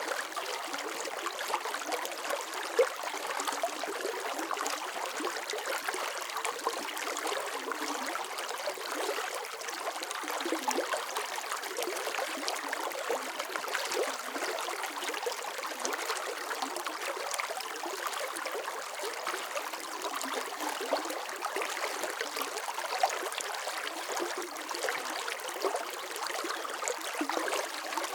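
Running water flowing and trickling steadily, a light splashy bubbling with no low rumble, and a couple of slightly louder splashes.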